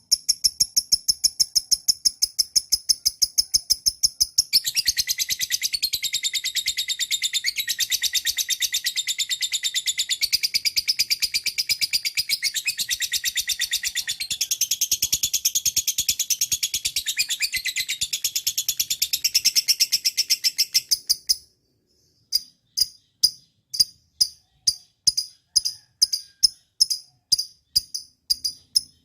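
Lovebird chattering: a long, rapid, unbroken run of shrill chirps (the kind of continuous song bird keepers call ngekek), growing fuller and more varied about four seconds in. It stops suddenly after about twenty seconds, and then resumes as separate short chirps, about two a second.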